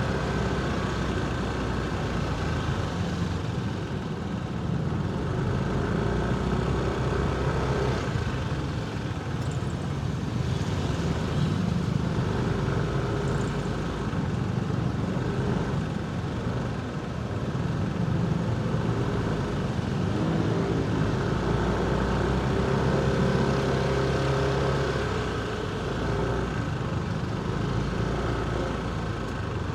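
Motorcycle engine running at low road speed, its pitch shifting up and down as the throttle changes, over the rumble of surrounding city traffic.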